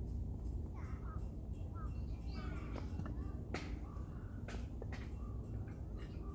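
Birds chirping, several short calls, with three sharp snaps around the middle, over a steady low rumble.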